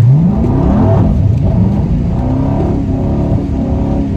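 Car engine revving up sharply from idle and then held at high revs under hard throttle, as in a drift or donut attempt, its pitch dipping and climbing again about a second in.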